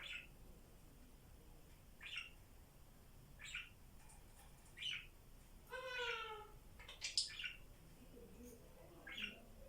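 Pet parrots calling: short chirps spaced every second or so, one longer pitched call about six seconds in, and a louder sharp call just after it.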